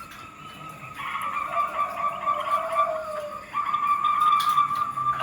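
Zebra doves (perkutut) calling, several voices overlapping in a steady trilled cooing, with a second, lower call in the middle.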